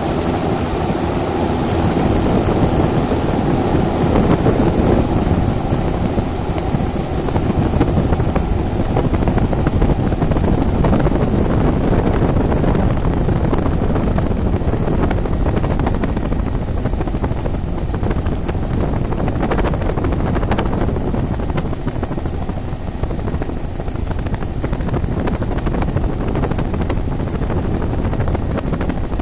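Helicopter in flight: steady, loud rotor and engine noise with a thin high-pitched whine over it.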